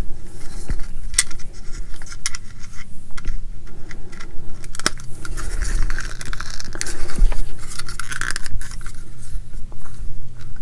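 Small plastic model-kit parts being handled and pressed into place, giving a run of sharp clicks and taps with scraping between them.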